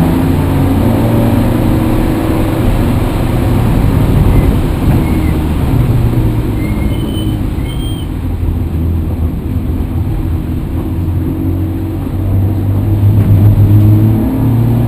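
A motor vehicle's engine running loudly, its pitch shifting up and down with engine speed. A few faint, short high squeaks come in the middle.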